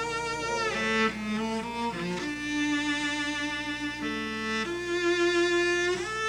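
Cello playing a slow melody of sustained notes with vibrato, the pitch changing every second or so.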